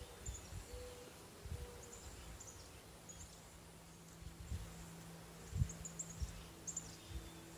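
Honeybees buzzing faintly around an open hive, a steady low hum with a second, higher buzz joining near the end. Small bird chirps and a few soft low bumps sound over it.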